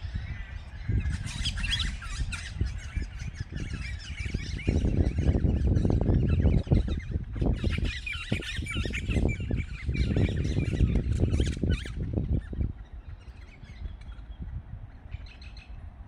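Several birds chirping and twittering together, busiest about a second in and again from about seven to twelve seconds, over a low, uneven rumble that swells twice.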